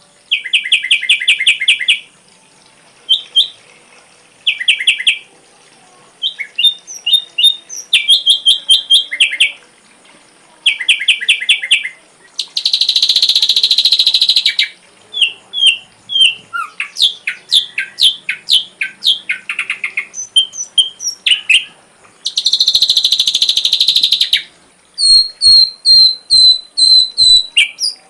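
Ashy drongo song, full of mimicked calls, in varied phrases with short pauses between them: rapid trills, clear whistled notes, two harsh buzzy bursts of about two seconds each, and a run of sharp high notes near the end.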